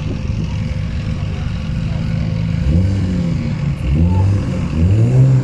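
Car engine running with a steady low drone, then revved several times from about halfway in, its pitch rising and falling with each rev.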